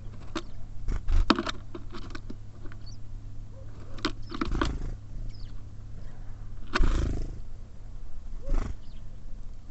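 Small birds at a feeder, pecking, tapping and landing: a series of sharp taps and knocks with a few heavier thumps, the loudest about seven seconds in, and a couple of faint chirps.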